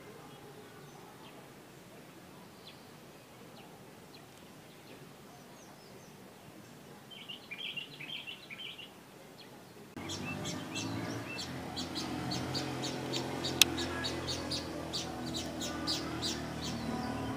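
Small birds chirping. At first it is faint and sparse, with a short flurry of chirps; about ten seconds in it turns abruptly louder, with dense, rapid chirping over a steady low hum.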